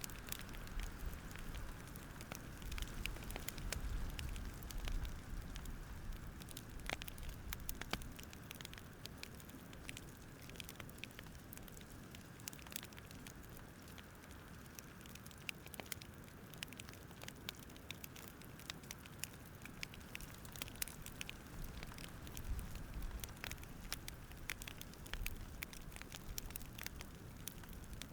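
Campfire crackling, with irregular small pops and snaps over a low steady rumble.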